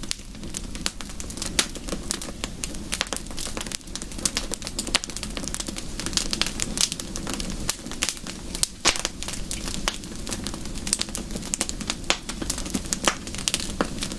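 Wood fire crackling: dense, irregular pops and snaps, some louder than others, over a steady low rushing hiss.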